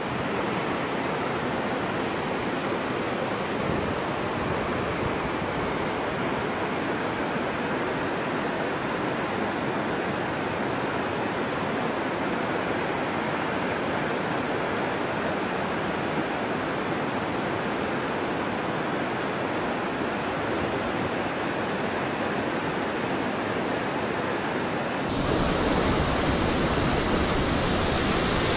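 Waterfall: a steady rush of falling water. About 25 seconds in it suddenly gets louder and deeper.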